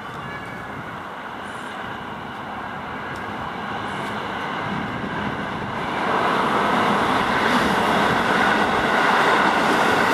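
Keihan electric commuter train running past on the tracks: steady running noise of wheels on rails that grows louder as it approaches, stepping up about halfway through and staying loud as the cars pass close by.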